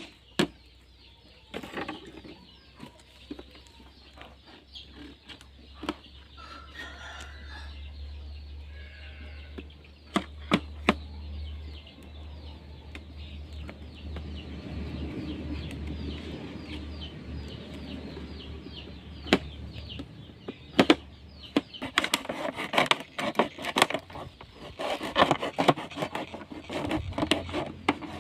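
Chickens clucking while wood is being worked by hand: scattered sharp knocks and rubbing, turning into a busy stretch of scraping and rustling near the end.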